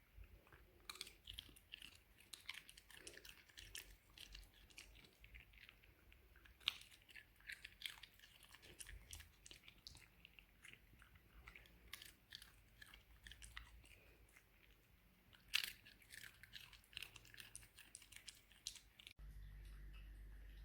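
Shiba Inu chewing food noisily, a long run of irregular crunches and wet mouth clicks, two of them sharply louder.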